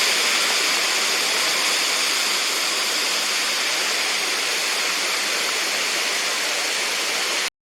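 A 30-foot man-made waterfall: a steady rush of falling water that cuts off suddenly near the end.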